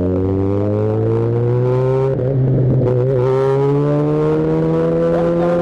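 Yamaha XJ6 inline-four motorcycle engine under acceleration, its pitch climbing steadily, dropping briefly about two seconds in, then climbing again.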